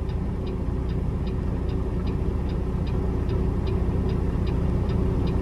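Peterbilt semi truck's diesel engine running steadily, heard from inside the cab, with a light regular ticking about two and a half times a second over it.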